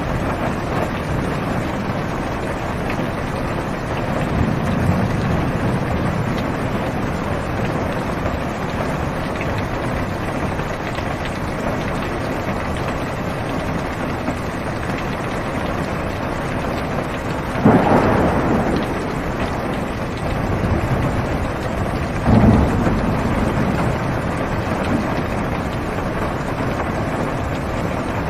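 Steady heavy rain falling on a car's roof and windows, heard from inside the cabin. Two sudden thunderclaps break through it, a sharp one a little past halfway and a lower, rumbling one a few seconds later.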